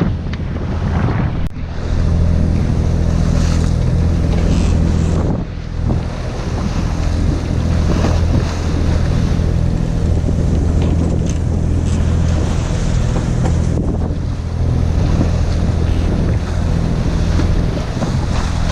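A sailboat's inboard engine running steadily while motoring, under a rush of wind buffeting the microphone and water noise. The engine's low drone dips briefly twice.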